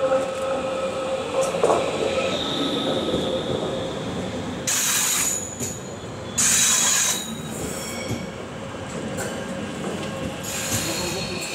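BLS electric multiple unit pulling slowly into the station over curved track: its wheels squeal, and two short bursts of hiss come about five and six and a half seconds in.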